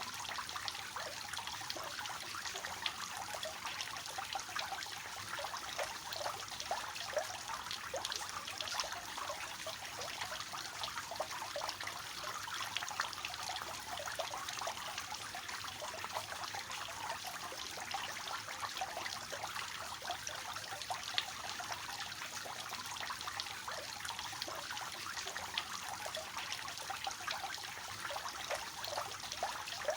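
Water from a three-tiered fountain spilling and splashing steadily into the basins below, a continuous patter of small splashes.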